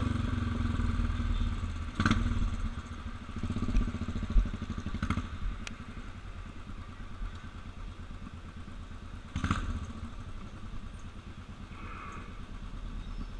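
Motorcycle engine running steadily at low revs, with a few brief knocks or clatters over it.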